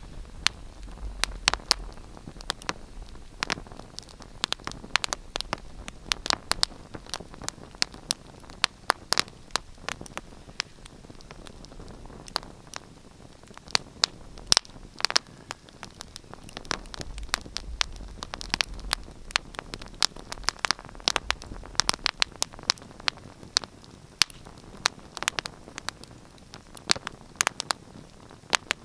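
Wood fire crackling and popping: irregular sharp snaps, several a second, over a soft steady hiss, with a faint low rumble now and then.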